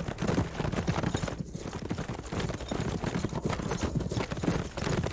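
Hoofbeats of several horses galloping: a dense, rapid, irregular clatter.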